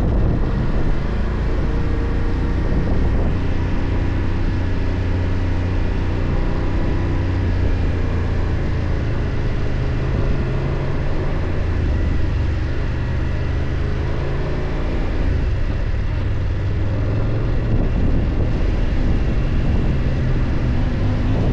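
BMW F 800 GS parallel-twin engine running under way, its revs rising and falling gently.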